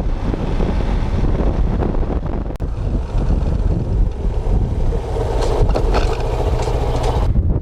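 Motorcycle riding along, with its engine running under loud wind rumble on the microphone. A steadier mid-pitched tone joins about five seconds in and cuts off suddenly near the end.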